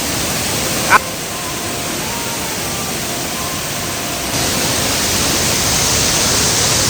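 Steady rushing of a waterfall, growing louder and brighter about four seconds in. About a second in, a single short, sharp rising call cuts through.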